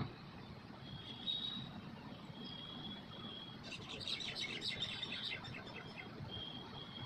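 Birds chirping and whistling, with a quick flurry of chirps about halfway through, over a faint steady low rumble.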